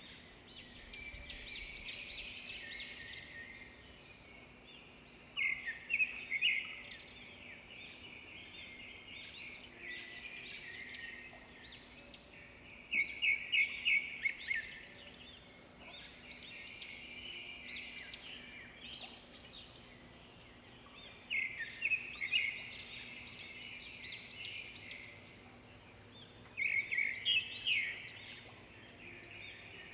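Songbirds singing: four louder phrases of rapid high chirping notes, with softer twittering between them.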